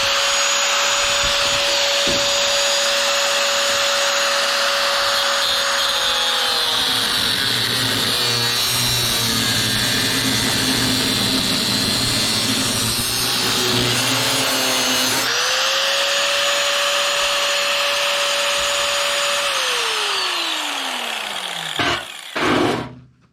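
A high-speed electric power tool running at a steady whine. For several seconds its pitch sags and the sound turns rough and noisy as it works under load, then it revs back up. Near the end it is let go and winds down with a falling whine, followed by two knocks.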